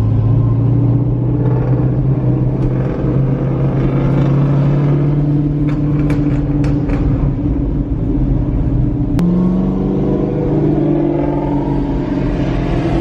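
Loud muscle-car engine rumbling steadily at low revs, its pitch stepping up about nine seconds in.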